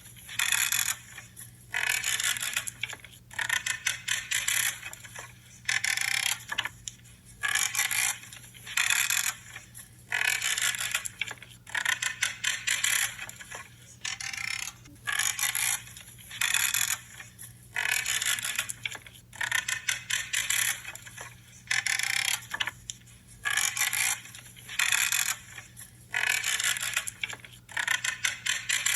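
Branches being cut one after another with a pruning cutter, each cut a creaking, crunching burst lasting under a second. The cuts come about once a second, with brief pauses between them.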